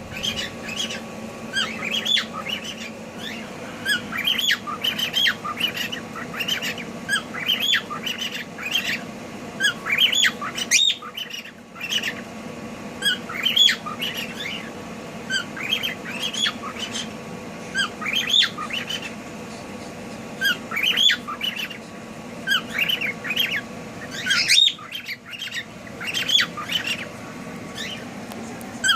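Pet cockatiels calling over and over: short, sharp squawks and chirps, several a second, with brief lulls about eleven seconds in and near the end. A steady faint hum runs underneath.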